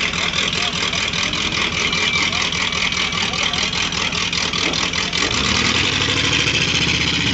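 Hot rod's loud engine running as it drives past, with a rapid, even beat of exhaust pulses. From about five and a half seconds in, a second, lower engine note joins.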